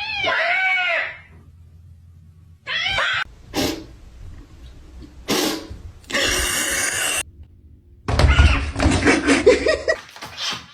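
A cat meowing in short, separate calls, with brief noisy bursts between them.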